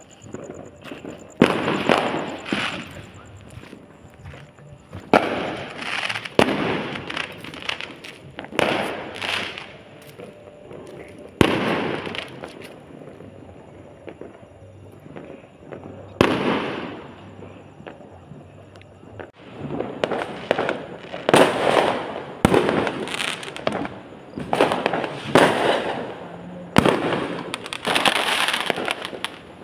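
Fireworks going off: a series of sharp bangs, each trailing away over a second or two. There is a lull of several seconds in the middle, then a dense run of bursts.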